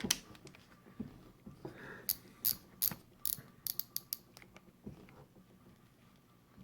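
Baitcasting reel clicking while a backlash is worked free: a quick run of sharp, light mechanical clicks about two seconds in, with a few scattered knocks around it.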